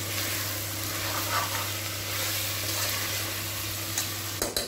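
Boiled mutton pieces sizzling in hot oil with fried onions and ginger-garlic paste in a pressure cooker, while a slotted steel spatula stirs and scrapes them around the pot. A few sharp clicks come near the end.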